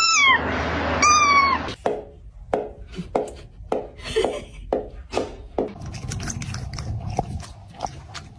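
A cat meowing twice, each meow falling in pitch, followed by a run of short clicks or taps.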